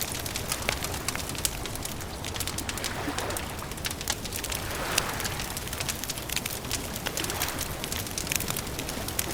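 Campfire crackling steadily, with frequent small snaps and a few louder pops over a continuous soft rushing background.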